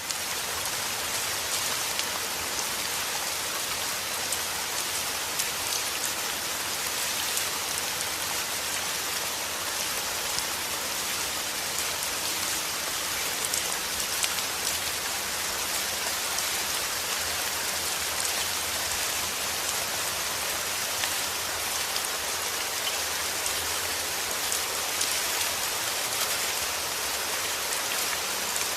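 Heavy rain falling steadily, a dense hiss of drops with scattered individual drop patters on a surface.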